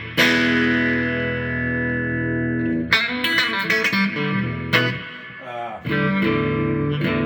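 Electric guitar played through a small Roland Micro Cube amp: a chord struck and left ringing for nearly three seconds, then a run of quick picked notes and a slide, and another chord about six seconds in that rings on.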